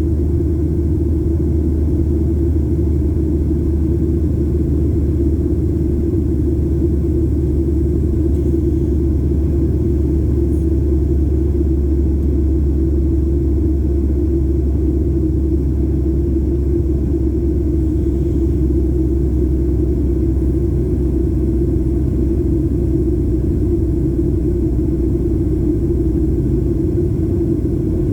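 Boeing 737-800 cabin noise heard from a seat behind the wing: the CFM56 turbofan engines and airflow make a loud, steady, even rumble with no change in pitch or level.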